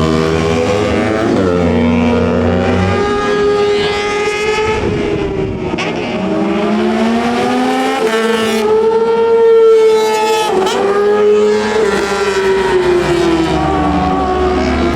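Superbike racing motorcycles (600 cc and up) at racing speed, several engines at once at high revs, their pitch rising and falling as they accelerate, shift and pass.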